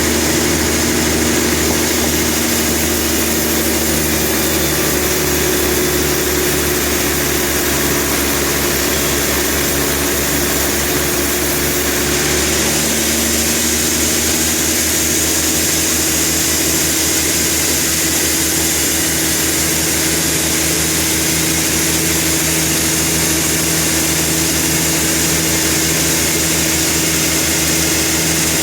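Sawmill machinery engine running steadily, its pitch and pulsing pattern shifting about halfway through.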